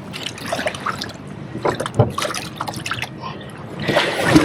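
Water dripping and splashing in small, irregular splashes close to the microphone.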